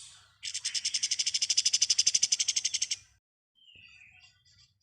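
A kapas tembak songbird giving its 'ngebren' song: a loud, rapid machine-gun trill of about a dozen even notes a second that lasts about two and a half seconds. It is followed by a few faint short chirps.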